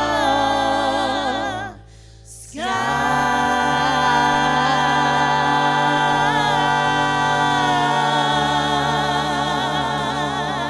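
A small vocal group singing a gospel song in harmony, ending it: a sung phrase, a brief break about two seconds in, then a long final chord held with vibrato.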